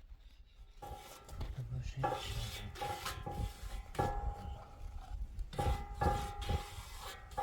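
Metal being knocked and scraped: about eight sharp clanks, each leaving a short metallic ring, with rubbing and scraping between them.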